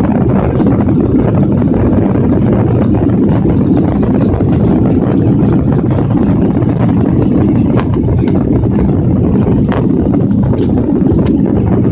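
Steady, loud rumble of an airliner's engines and airflow heard from inside the cabin during takeoff, with a few faint clicks in the second half.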